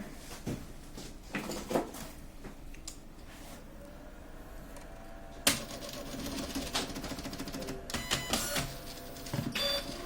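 Epson PLQ-20 passbook printer's mechanism: scattered clicks and knocks, then about halfway through a sharp click and the paper-feed roller motor runs with a rapid rattling buzz and a steady whine, with a few more clicks near the end. This is the fault under repair: the roller spinning on its own with no paper being picked up.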